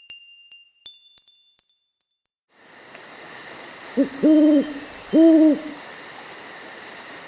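A short run of bell-like chime notes stepping upward, then night ambience with insects chirring in a fast even pulse, over which a great horned owl gives two deep hoots, the first with a quick lead-in note.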